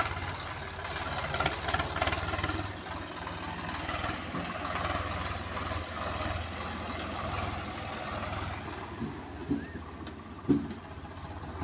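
Heavy diesel engine of earth-moving machinery running steadily, with a short sharp knock about ten and a half seconds in.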